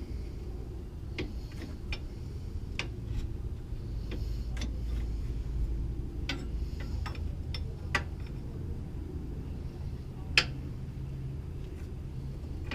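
Scattered, irregular clicks and light taps of metal hand tools on suspension hardware, with one sharper knock about ten seconds in, over a steady low hum.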